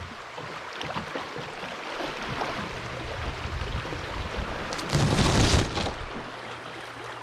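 River water rushing and splashing around a drifting kayak, with a louder rush of about a second near five seconds in.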